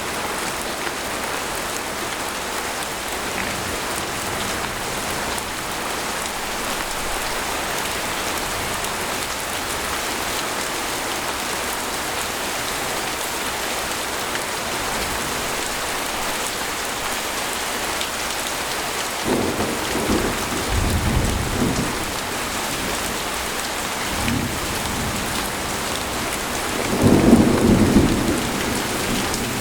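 Steady rain falling on a tent, with thunder rumbling in the second half: a first roll a little past the middle, then a louder rumble near the end.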